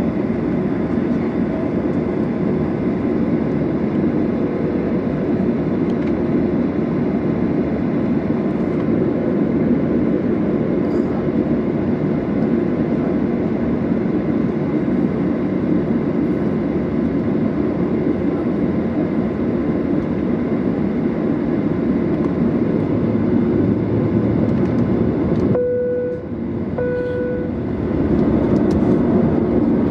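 Steady cabin noise of a Boeing 737-800 on the ground before takeoff, from its engines and air conditioning. Near the end the noise dips suddenly and two short beeps sound about a second apart.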